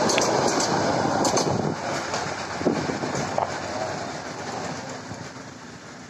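Bangladesh Railway passenger train passing close at speed, its wheels on the rails giving a few sharp clicks in the first second and a half. The noise then fades steadily as the last coach draws away down the track.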